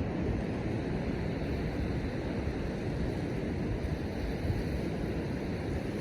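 Steady wind noise on the microphone over ocean surf washing on the shore, a constant rushing with the weight in the low end.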